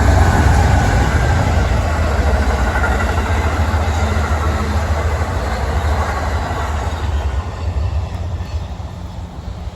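Amtrak passenger train rolling past with a heavy low rumble and rail noise, fading over the last few seconds as it moves away.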